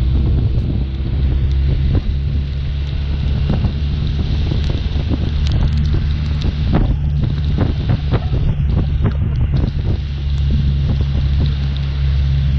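BMW R1200RT's boxer-twin engine running at a steady cruising speed, half buried under heavy wind noise buffeting the microphone, with frequent short gusty thumps.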